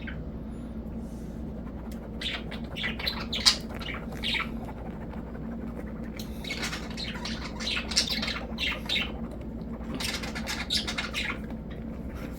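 Budgerigar chattering: clusters of quick, high-pitched chirps and squawks in three bouts, with short pauses between.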